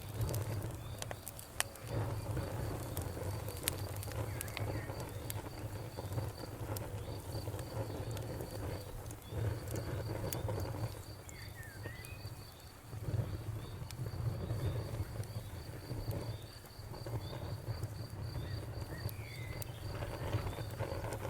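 Wood fire crackling, with scattered sharp pops over a low steady rumble. A cricket chirps in a fast, even pulse behind it, and a bird gives a few short chirps.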